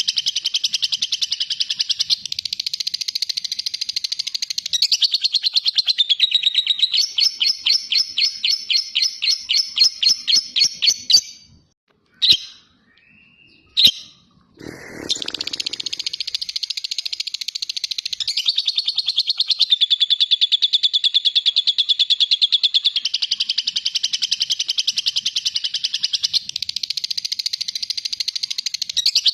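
Lovebird singing a long ngekek: a rapid, high, unbroken chattering trill. Partway through it switches to louder separate notes about four a second, breaks off for a few seconds with two sharp clicks in the pause, then picks up the chattering again.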